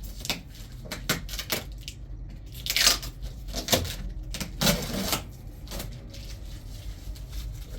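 Rustling, scraping and light clicks of things being handled, with the loudest scratchy rustles about three and five seconds in.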